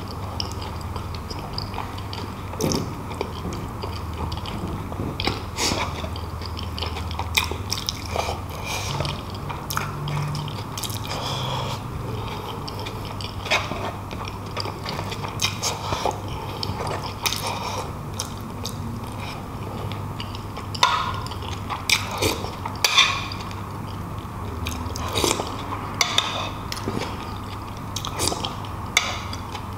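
Close-up mouth sounds of a man eating beef bulalo (beef shank and broth): chewing and biting, heard as many irregular short clicks and smacks.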